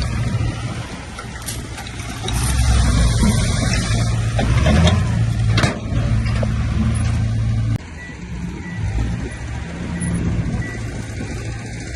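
Diesel engines of heavy earthmoving machines running, louder for a few seconds in the middle, with a sharp clank about halfway through. The sound drops suddenly about two-thirds of the way in, after which a faint series of short beeps repeats.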